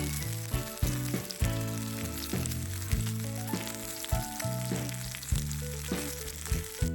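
Food sizzling as it fries, under background music with a steady bass line and a plucked melody repeating every half second or so.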